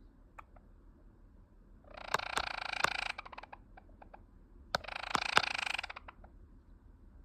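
Java sparrow making two rapid, pulsed, rattling phrases about a second and a half each, with a few sharp clicks before the first.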